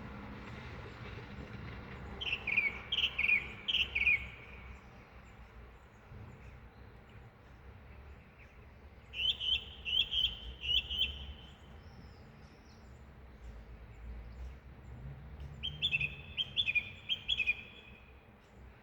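A songbird singing three short phrases of quick repeated notes, about six seconds apart, over a steady low background rumble.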